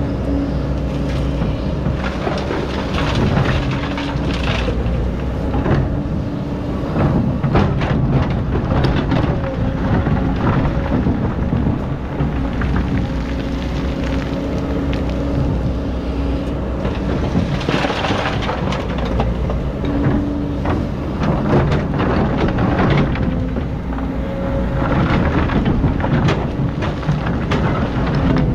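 Excavator's diesel engine running, its steady hum rising and falling with the work. Over it come repeated surges of rushing, rumbling noise as sand is dug, with scattered knocks and clanks.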